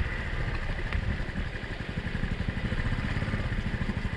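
Honda Cub's single-cylinder four-stroke engine running at low revs as the bike moves slowly over rough ground, with a steady even pulse and a light click about a second in.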